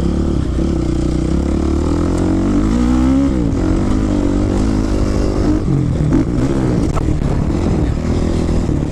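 Honda CRF450 dirt bike's single-cylinder four-stroke engine running hard on a motocross track, its pitch climbing two to three seconds in, then dropping sharply and picking up again with smaller rises and falls as the throttle is worked.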